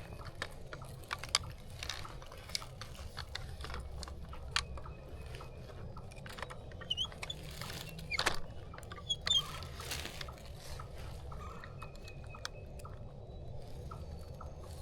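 Scattered light crunches and clicks, with a few short bird chirps about seven to nine seconds in and a steady low rumble underneath.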